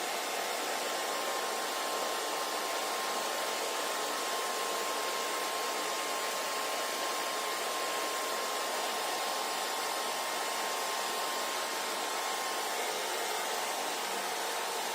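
Hair dryer running steadily, a constant rushing of air with a faint whine that fades out near the end.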